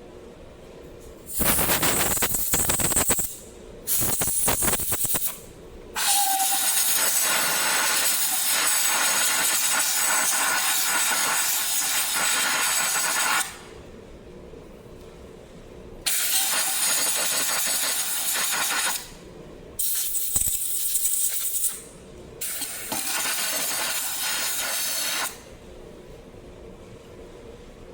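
Compressed-air blowgun hissing in six blasts of varying length, the longest about seven seconds. It is drying out the fuel-wet spark plug and plug hole of a flooded chainsaw.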